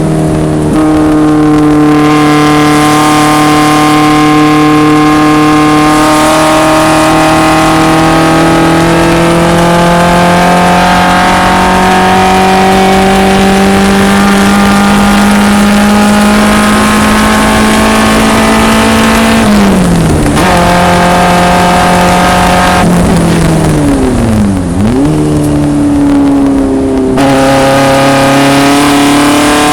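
1974 BMW 2002 racecar's engine running hard at high revs, its pitch climbing slowly through a long pull. About two-thirds of the way in the note drops sharply twice as the driver lifts and downshifts into a corner, then it climbs again under full throttle near the end.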